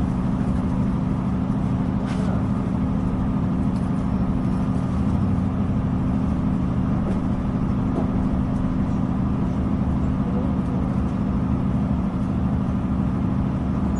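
Steady low rumble of a Northern Ireland Railways diesel passenger train running along the line, heard from inside the carriage: engine drone and wheel noise at an even level.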